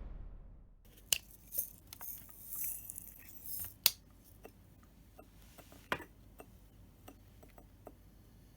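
A cockatiel's beak nibbling and clicking: scattered small sharp clicks with some scratchy sounds, the loudest about a second in, near four seconds and near six seconds.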